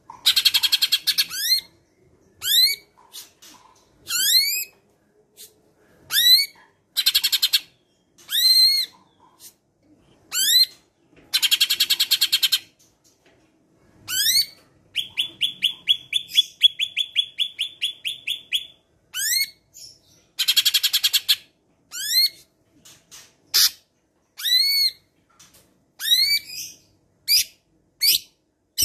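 Greater green leafbird (cucak ijo) singing: repeated sharp upward-sliding whistles broken by dense, rapid chattering phrases, with a fast even run of notes at about seven a second in the middle. The chattering phrases are typical of its mimicry of other birds, such as house sparrows.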